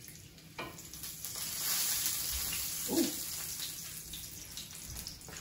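Bacon and scrambled eggs sizzling in frying pans on a stovetop; the sizzle swells louder for a couple of seconds after about a second in. A short pitched sound stands out about three seconds in.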